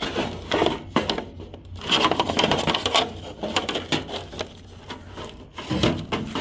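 Rummaging through a box of stored ceiling fan parts: irregular knocking, clattering and scraping of blades and other items being shifted around, busiest in the middle.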